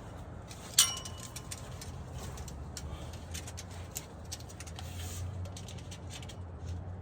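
A sharp metallic clink with a brief ringing tone about a second in, then scattered light clicks of handling over a steady low hum.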